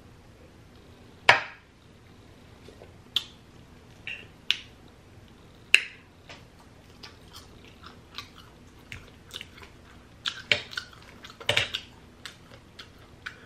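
Close-miked eating sounds: chewing and mouth noises heard as a series of separate sharp clicks. The loudest comes about a second in, and a denser run follows near the end.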